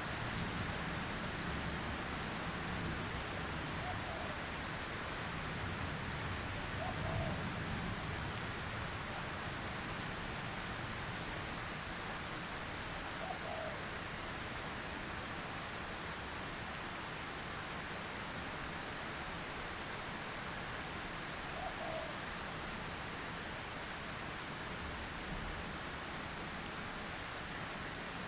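Steady rain falling on surfaces, an even hiss throughout, with a low rumble in the first several seconds and a faint brief blip every several seconds.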